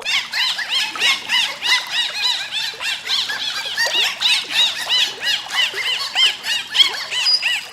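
A group of animals making many overlapping short, high squeaky calls, each rising and falling in pitch, in a busy continuous chorus.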